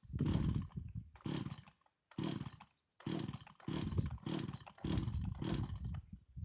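Two-stroke chainsaw being pull-started over and over: about eight quick rasping pulls of the starter cord, each turning the engine over, without it catching and running.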